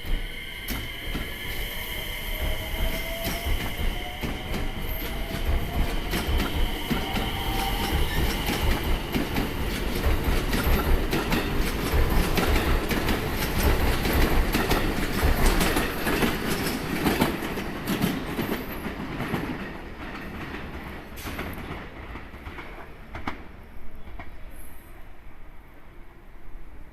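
Electric commuter train running past, its motor whine climbing in pitch over the first several seconds. Then a run of wheel clicks over the rail joints grows loudest midway and fades out after about twenty seconds.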